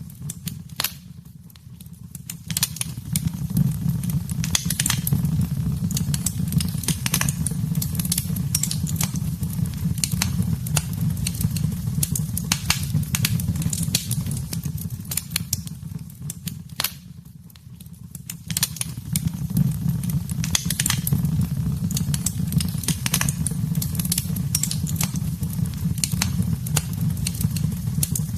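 Wood fire burning in a fireplace: a steady low rumble with constant sharp crackles and pops. The sound drops away briefly twice, about a second in and again about 17 seconds in, then returns.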